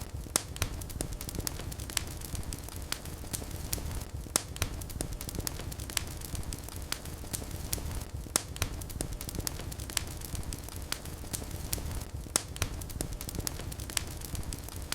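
Wood fire burning in a fireplace: a steady low rumble of flames with irregular sharp crackles and pops several times a second.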